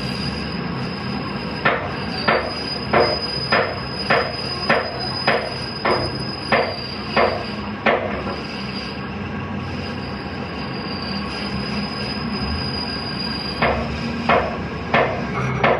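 Hammer blows on metal in a steady rhythm, about one and a half a second, pausing for several seconds midway before starting again. Under them runs a steady high-pitched whine and a low hum.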